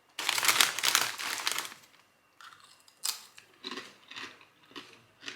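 Ridged potato crisps being bitten and chewed: a loud crunching for over a second, then softer crunches about twice a second.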